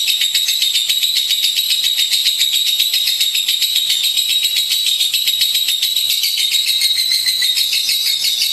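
Lovebird singing a long, unbroken rapid trill, the continuous chatter that Indonesian keepers call 'ngekek'. Its pitch wavers slightly around a high note.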